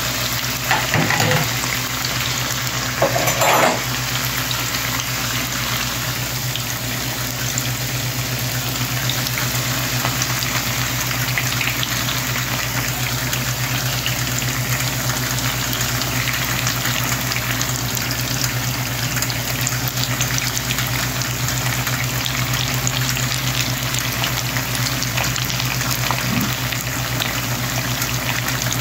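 Sweet potato slices frying in hot oil in a pan, a steady crackling sizzle. Two brief louder noises come about a second in and again around three seconds in.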